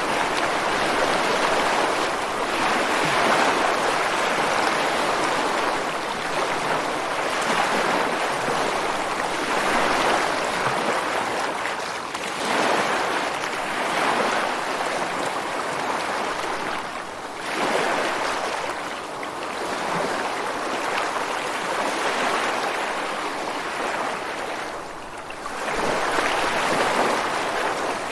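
Ocean waves washing ashore onto beach rocks: a continuous rush of surf that swells and eases every few seconds, with a brief lull about 25 seconds in.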